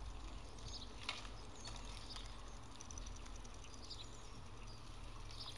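Faint, scattered high chirps like small birds twittering, over a low steady hum, with one sharp click about a second in.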